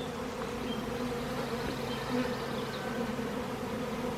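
Honey bees buzzing steadily, a dense hum of many bees from a colony shaken out onto a ramp and walking up into their hive.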